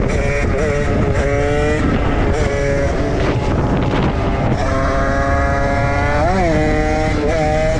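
Dirt bike engines running while riding, the revs holding, dropping and climbing, with a quick blip of the throttle about six seconds in. Heavy wind rumble lies under the engine sound.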